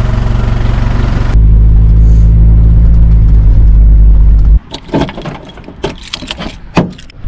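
A four-wheel-drive's engine running with a steady low drone, heard first from outside and then from inside the cab. About four and a half seconds in it cuts off abruptly to keys jangling, with sharp clicks of a key working the car door lock.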